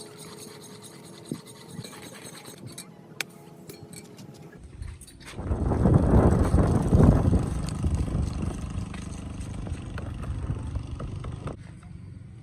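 A motor vehicle's rumble comes in loudly about five seconds in, is strongest a second or two later, then eases and stops near the end. Before it there are only a few faint clicks.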